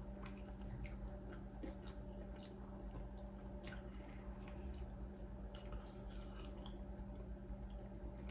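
Close-miked chewing: a person chewing a mouthful of food, with faint scattered wet mouth clicks, over a steady low hum.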